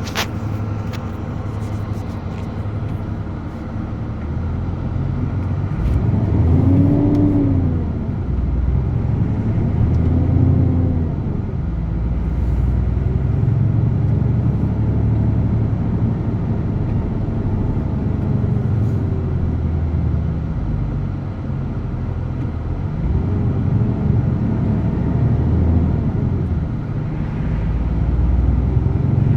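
DAF truck's diesel engine running under way with a steady low rumble, its pitch rising and falling several times as the truck speeds up and slows.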